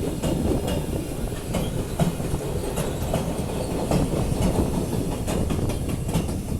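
A train rolling past, its wheels clicking irregularly over rail joints above a steady low rumble.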